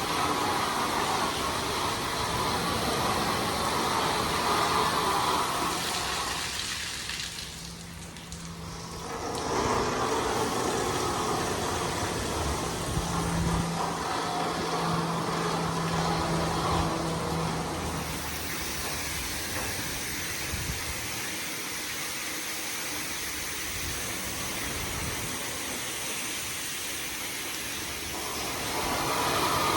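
High-pressure water jets of a LaserWash 360+ touchless automatic car wash spraying over the car, heard from inside the cabin. The spray fades and sweeps back at about 8 seconds in, is steadier and a little quieter in the second half, and builds again near the end.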